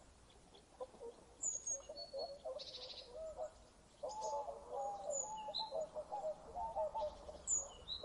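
Several birds calling: scattered short, high chirps over a run of lower, wavering calls that grows busier about halfway through.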